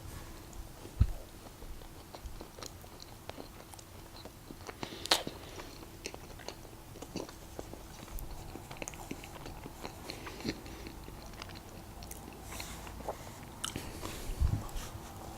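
Close-miked chewing and biting of soft Krispy Kreme doughnuts: wet mouth noises and scattered sharp clicks, with a low thump about a second in and another near the end.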